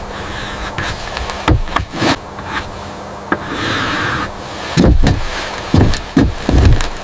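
Irregular knocks and heavy thumps, several loud ones close together in the second half, over a faint steady hum.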